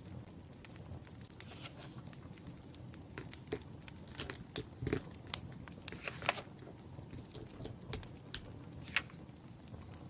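Wood fire crackling: irregular sharp pops and snaps over a low steady rumble, coming thicker in the middle stretch.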